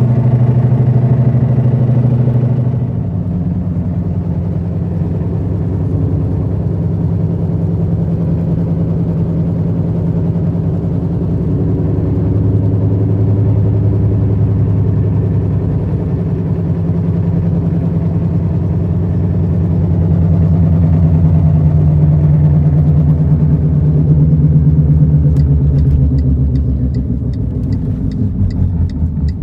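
Steady low humming drone from the front end of a 2006 Chevy HHR while driving, shifting in pitch as road speed changes: it drops about three seconds in, climbs again later and eases near the end. It is a noise that gets louder and faster with speed, which the owner suspects is a front wheel bearing.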